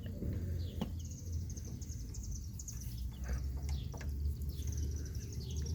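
Newly hatched chicks peeping under a brooding hen: runs of rapid, high-pitched peeps, twice, over a steady low hum, with a few faint clicks.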